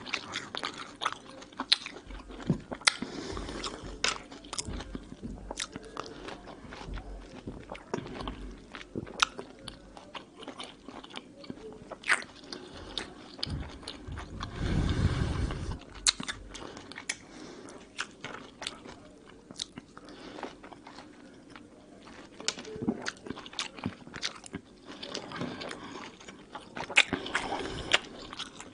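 Close-miked chewing of juicy peeled mandarin segments, with many sharp wet clicks from the mouth. About halfway through there is a louder low rushing noise lasting about a second.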